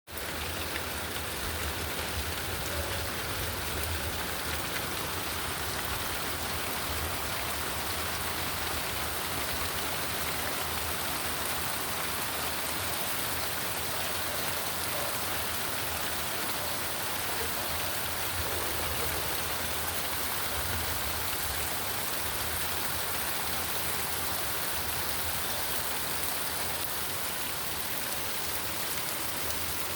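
Steady rain falling, an even continuous hiss with no breaks.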